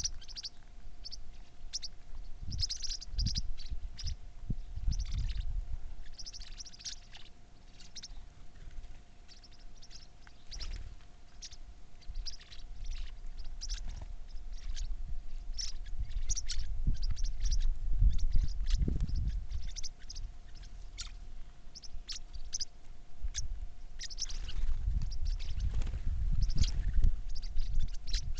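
Birds chirping, many short high calls following one another throughout, with repeated stretches of low rumble underneath and a faint steady hum.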